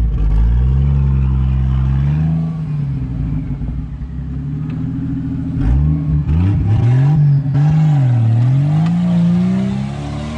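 Off-road 4x4's engine revving hard under load as it drives up sand, its pitch rising and falling with the throttle: high for the first two seconds, easing off, then surging again from about halfway with some rattling, and climbing near the end.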